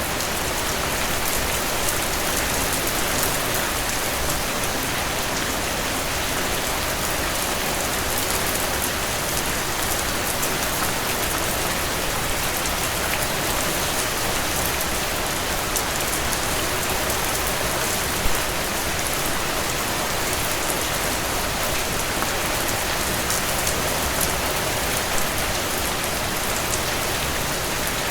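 Heavy rain falling steadily on a cabin porch, with the scattered sharp crackles of a wood fire and one louder pop about eighteen seconds in.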